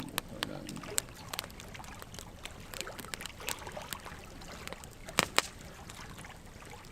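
Wood logs burning in an open fire, crackling with irregular sharp pops over a low steady hiss; a close pair of louder pops a little past five seconds in.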